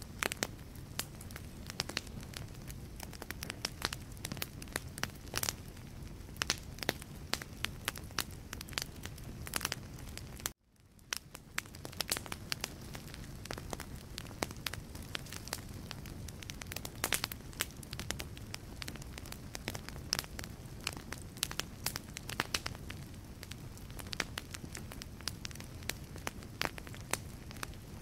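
Wood fire burning in a fireplace, logs crackling and popping in dense irregular clicks over a low steady rumble of flame. About ten seconds in the sound cuts out suddenly and fades back up within a second or two.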